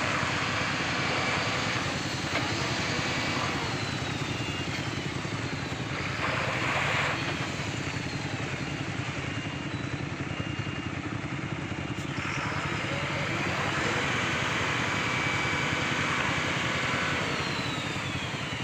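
Truck engine running steadily amid other traffic engines, with a short louder burst of noise about six seconds in.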